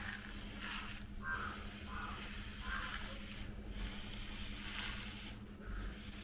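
Water poured gently from a small container onto potting soil in a plastic-bottle planter, trickling and splashing in short spells, over a steady low hum.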